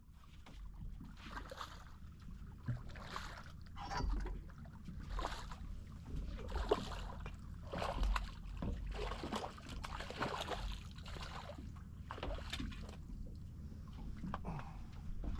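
Water splashing and sloshing against a small boat in irregular bursts, over a low steady rumble.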